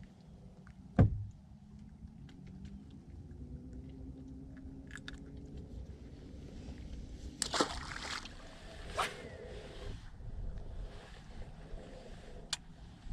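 Water sloshing against a small boat in the wind, with a sharp knock about a second in and a few lighter knocks and clicks later.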